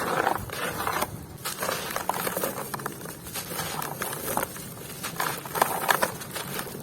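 A crunchy, dusty material being crushed and crumbled by hand: irregular crunching with dense runs of small crackles.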